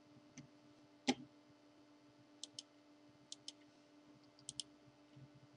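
Sharp clicks of a computer mouse: a single click, a louder one about a second in, then three quick double clicks, over a faint steady hum.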